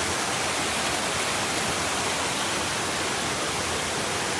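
A waterfall's falling water rushing, loud and steady without change.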